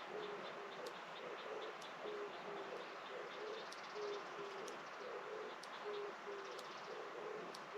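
A dove cooing: short low notes repeated, often in pairs, over a steady outdoor hiss. A faint rapid high ticking runs under it for the first few seconds.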